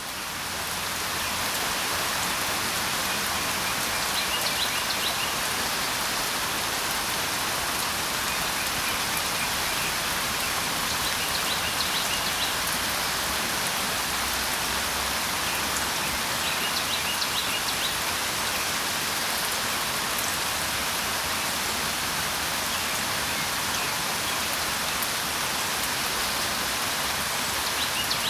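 Steady rain falling, fading in over about the first second. A bird calls in short chirping bursts every several seconds.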